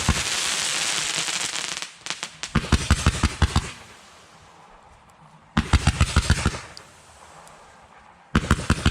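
Fireworks going off: a hissing crackle for about the first two seconds, then three rapid volleys of sharp bangs, each about a second long and about three seconds apart.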